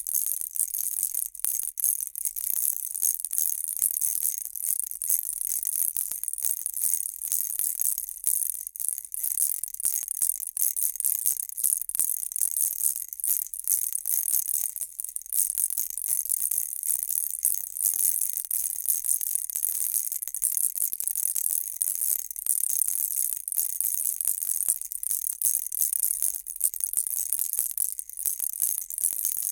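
Baby rattle shaken continuously: a dense, high, bright rattling of small beads that swells and dips with each shake and never stops.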